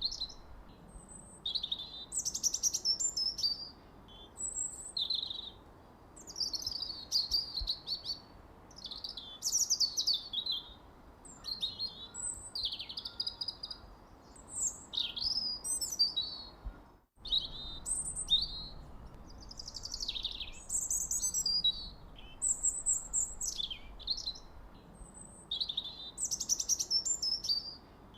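Songbird singing short, high phrases of chirps, sweeps and trills one after another, over a faint steady hiss. The sound cuts out for a moment about 17 seconds in.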